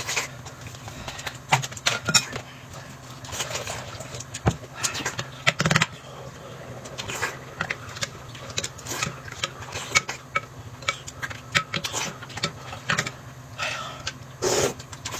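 Eating at a table: irregular clicks and clinks of utensils against bowls, with a few longer noisy stretches of eating sounds.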